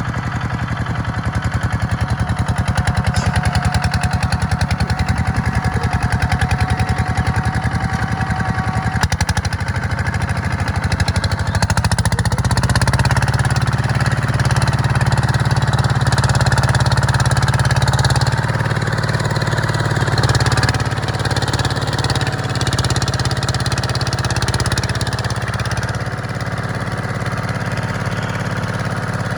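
Tractor diesel engine running steadily with a fast, even pulse, likely while pulling a plough. It grows louder about twelve seconds in and eases back again a few seconds later.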